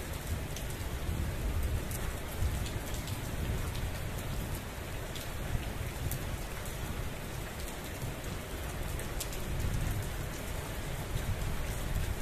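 Heavy monsoon rain falling steadily: a dense even hiss with scattered sharp ticks of drops striking close by, over a low rumble.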